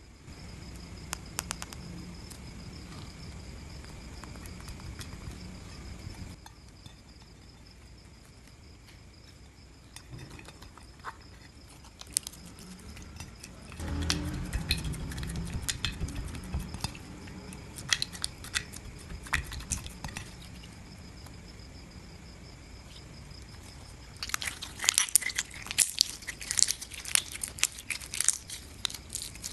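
Clear glitter slime being squished, pressed and stretched by hand, giving wet sticky clicks and crackles with low squelchy handling noise. Near the end the clicks come thick and fast.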